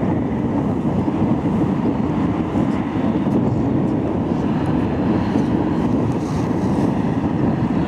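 Steady airflow and engine noise inside a Boeing 787 Dreamliner in flight on its descent, an even rumbling hush with no change in level.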